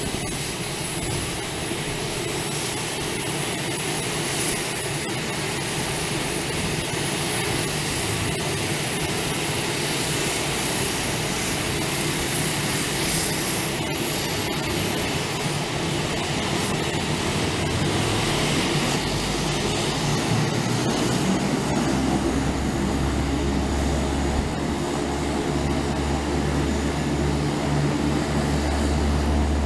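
Airplane engine running steadily and slowly growing louder, with a deep low hum coming in about two-thirds of the way through.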